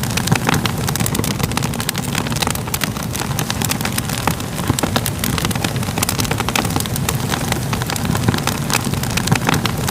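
Crackling fire: a steady low rush with many sharp crackles and pops scattered through it.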